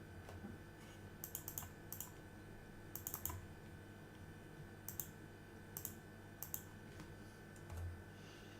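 Computer keyboard typing: scattered clusters of quick key clicks over a faint steady hum.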